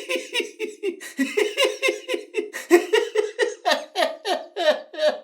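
A person laughing hard in a rapid run of short "ha" bursts, about four a second, each dropping in pitch. The laugh gets higher and sharper in the second half.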